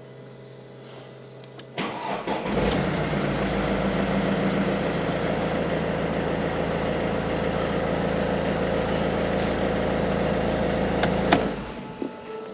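Mercedes-Benz W207 E-Class engine cranking and starting about two seconds in, then idling steadily for about nine seconds before it cuts off near the end.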